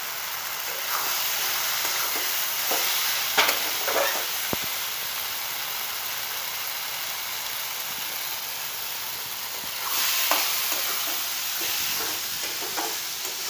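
Snail curry frying in a metal kadai, with a steady sizzle. A spatula scrapes and knocks against the pan a few times as it is stirred. The sizzle grows louder about ten seconds in.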